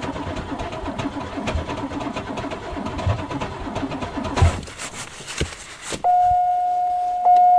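Starter cranking the cold 1990 Oldsmobile Delta 88's 3.8-litre V6 in an uneven, pulsing grind for about four and a half seconds, then cutting off, with the engine not yet running. About a second and a half later a loud, steady high tone starts and holds.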